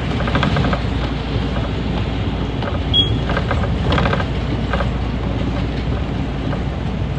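Small city bus running, heard from inside the cabin: a steady low engine and road rumble with repeated rattling, and a brief high beep about three seconds in.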